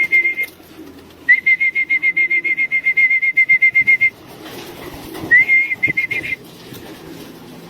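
A whistle blown in trilling bursts to call homing pigeons down to land. Each burst opens with a short rising note and goes into a fast warble of about eight pulses a second. There are three bursts, the longest about three seconds.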